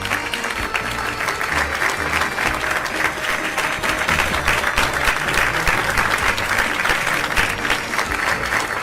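Crowd applause, many hands clapping at once, swelling towards the middle. A music track with a steady low beat runs underneath.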